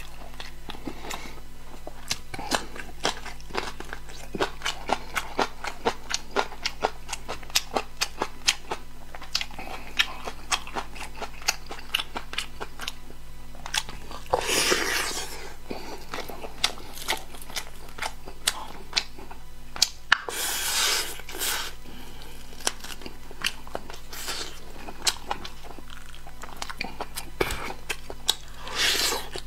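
Close-miked eating: chewing with many sharp, wet mouth clicks, two or three a second. Three longer, louder noisy spells come about halfway, about two-thirds through and at the very end.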